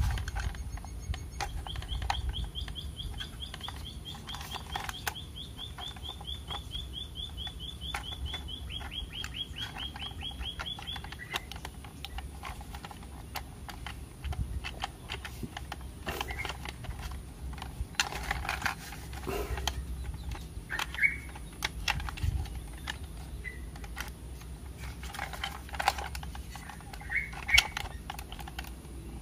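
A songbird's long trill of rapid, even notes lasting about ten seconds, followed later by a few short chirps. Scattered light clicks of hard plastic toy parts being handled and snapped together.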